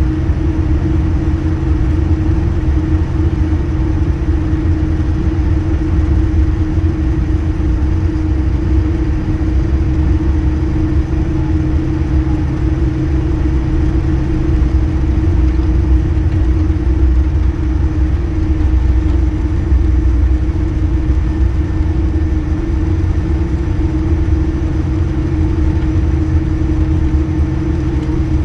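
Airliner cabin noise before take-off: a steady low engine drone and rumble with a constant hum, holding even without any rise in pitch.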